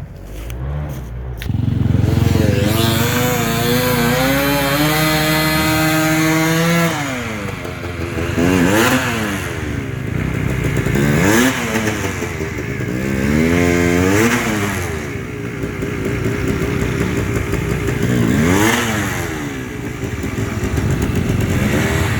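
Enduro motorcycle engine coming in loud about a second and a half in, climbing steadily in revs for several seconds, then dropping back, followed by a string of short rev surges that rise and fall every two to three seconds as the throttle is worked.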